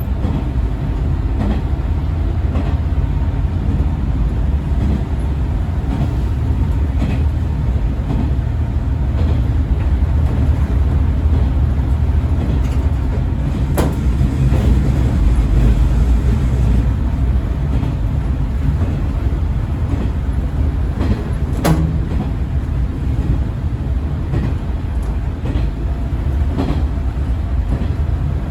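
Diesel railcar running steadily, heard from inside beside the driver's cab: a constant low rumble of engine and wheels on rail, with light ticks and two sharp clicks, one about halfway through and one later.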